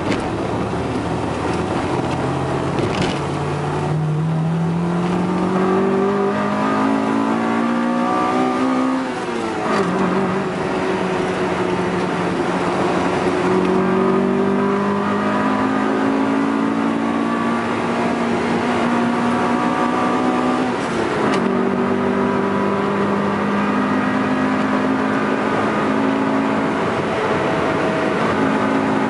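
Honda B18C 1.8-litre DOHC VTEC four-cylinder in a Honda del Sol, heard from inside the cabin, accelerating through the gears. The engine note climbs steadily, drops sharply at an upshift about nine seconds in, climbs again, and drops at another upshift around twenty-one seconds, with road noise underneath.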